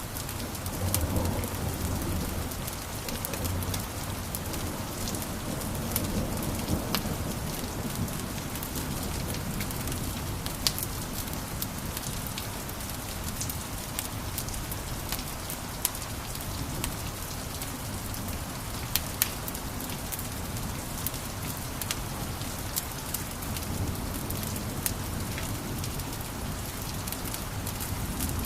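Wood fire in a fireplace crackling: a steady hiss and low rumble of flames with many sharp pops and snaps scattered through it.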